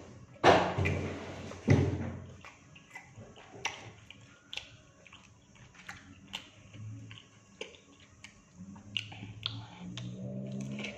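Close-miked eating of crispy fried batagor: two loud crunches near the start, then chewing with many small clicks and smacks.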